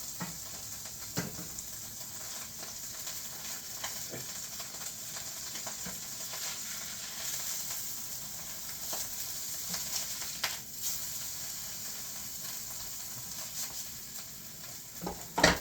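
Birria taco, a tortilla dipped in the broth's fat, frying in hot oil in a pan: a steady sizzle. A few light clicks sound over it, and a sharper knock comes near the end.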